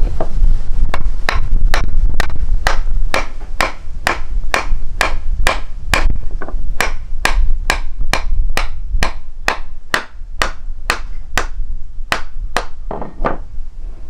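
A steady series of sharp knocks or strikes, about two a second, over a low rumble.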